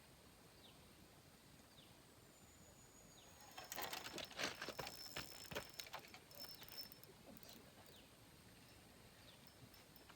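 Faint outdoor ambience with short, high, falling chirps repeating about once a second, typical of small birds. A brief cluster of clicks and rustles comes about four seconds in.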